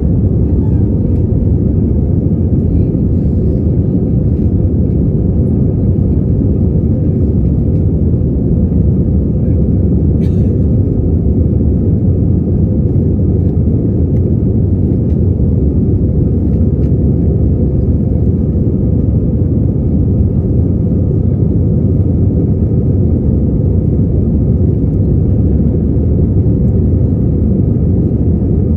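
Steady, loud, low rumble of an Airbus A320's jet engines and airflow, heard from inside the passenger cabin, with a faint thin tone near 1 kHz over it.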